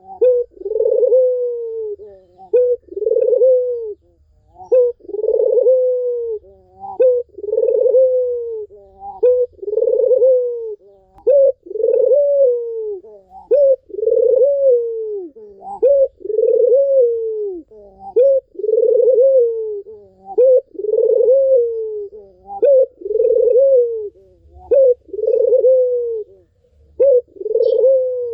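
Ringneck dove (puter) cooing over and over: each phrase is a short note or two, then a longer note that falls away, repeating roughly every one and a half seconds.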